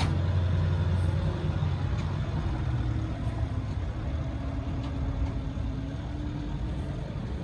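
A large vehicle's engine running steadily with a low rumble, loudest in the first couple of seconds and then easing off.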